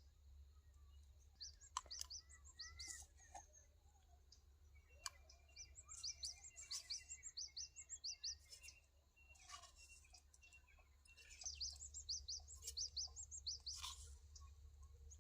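Small birds chirping: quick, high-pitched calls repeated in clusters, with short lulls around four and ten seconds in, over a faint low steady rumble.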